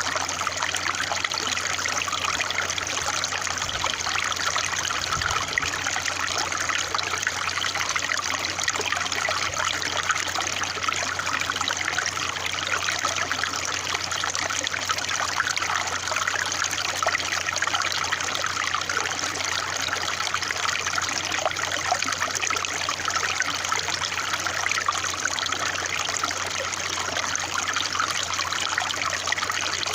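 Water trickling and splashing steadily, an even rush of small flowing water with no pauses.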